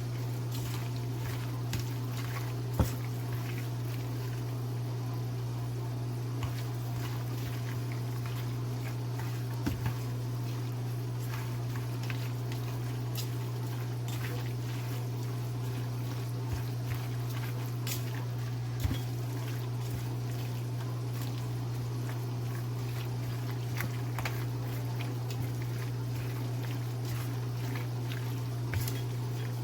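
Raw chicken being mixed by hand with oil, onion and spices: faint wet squishing and occasional light clicks over a steady low hum.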